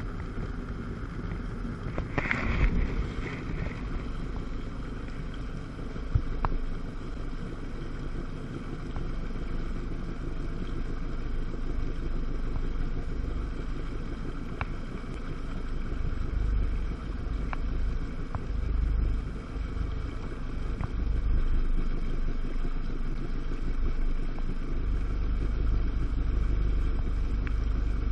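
1997 Sea-Doo GTS personal watercraft's 720 cc two-stroke twin engine running steadily on the water, with a brief louder rush about two seconds in. Wind buffets the microphone, more heavily in the second half.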